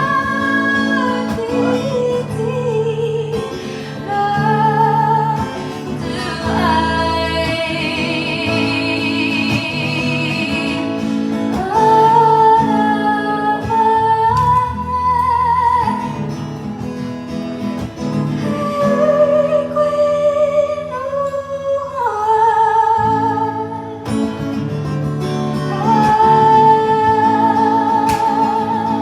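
A woman singing to her own acoustic guitar, played live. Her sung lines include a long held note with vibrato about a third of the way in.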